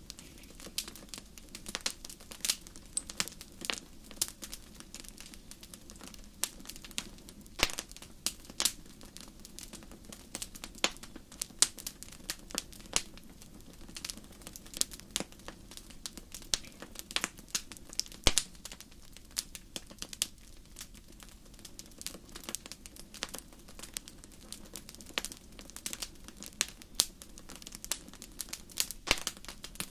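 Fire crackling, with irregular crackles and sharp pops over a steady low rumble, several pops louder than the rest.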